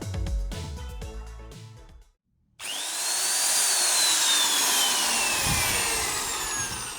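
Background electronic music ends about two seconds in. After a brief gap, a Dong Cheng DJZ03-16A electric drill starts running loudly, its motor whine climbing briefly and then falling slowly in pitch.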